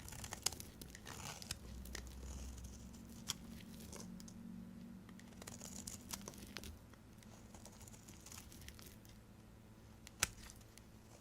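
A knife cutting through dry soap: irregular crackling and scraping with small crisp snaps, and one loud sharp snap about ten seconds in.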